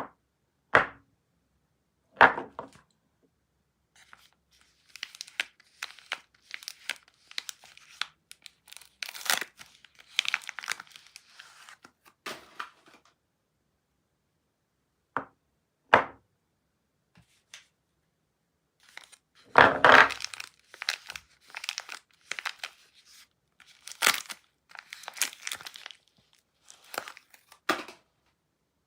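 Soap packaging being unwrapped by hand: wrapping crinkled and torn open in two long spells, with separate sharp crackles and taps before and between them.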